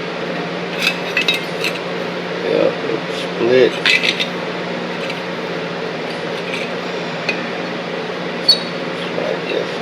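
Metal tools and parts clinking and knocking a few times during motor-mount removal work, with a steady low hum underneath.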